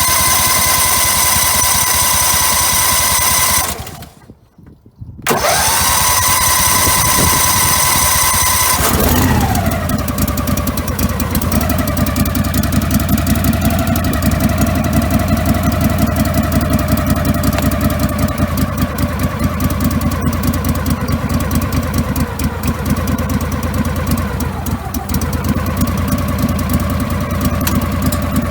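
Cold start of a 1999 Craftsman GT garden tractor's 20 hp Kohler Pro engine: the electric starter cranks with a steady whine, stops briefly, cranks again, and about nine seconds in the engine fires and keeps running.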